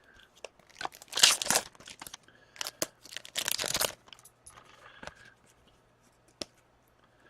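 Foil trading-card pack being torn open and crinkled, in two main bursts of crackling about a second in and again past the middle, with scattered light clicks of cards being handled.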